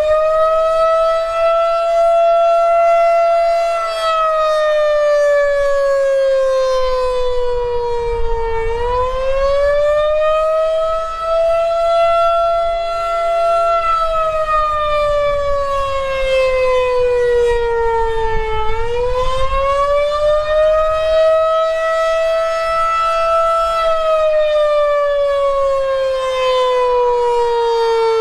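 Federal Signal 2001-130 electromechanical outdoor warning siren sounding its Attack (wail) signal. It rises quickly in pitch, holds, then slowly falls, about every ten seconds, for nearly three cycles. The uploader notes that the pitch kept fluctuating through the whole test, which points to a siren that is not running quite right.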